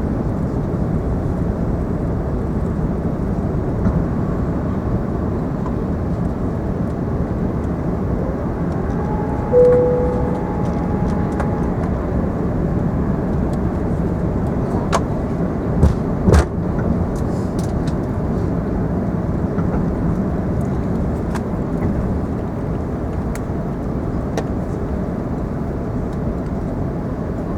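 Steady cabin noise inside a British Airways Airbus A380, engines and airflow heard from a passenger seat, with a short tone about ten seconds in and two sharp knocks a little past halfway.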